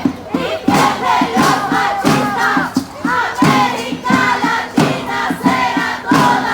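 Crowd of women chanting protest slogans in unison over a steady beat, about two to three strikes a second.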